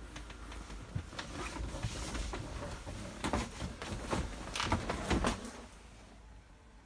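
Rustling with a series of knocks and clicks, loudest about three to five seconds in, as someone moves about inside a truck cab and bumps its fittings.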